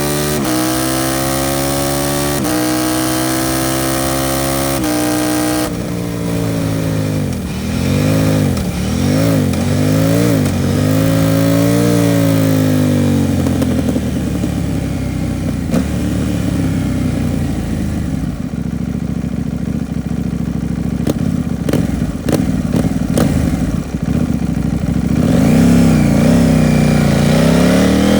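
KTM 790 Duke's parallel-twin engine through an Arrow Pro Race titanium exhaust, heard from the bike while riding. It pulls up through the gears under wind noise, then the revs swing up and down repeatedly before settling to a lower, steadier run with a few sharp pops. Near the end it accelerates again.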